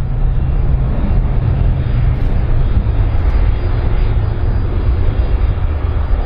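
Airplane engine noise: a steady, loud, deep rumble.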